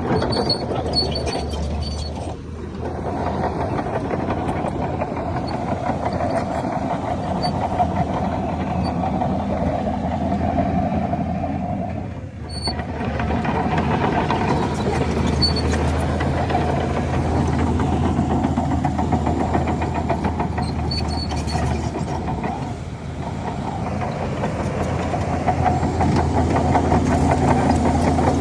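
Heavy diesel engines of earthmoving machinery, a dump truck and a bulldozer, running continuously with a low steady hum. The sound dips briefly three times.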